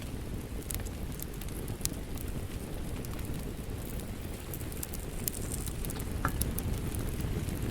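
Wood fire crackling with scattered sharp pops over a steady low rush of rain.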